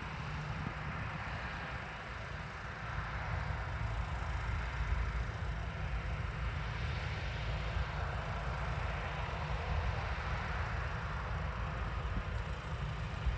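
Steady running noise of farm machinery, with wind buffeting the microphone.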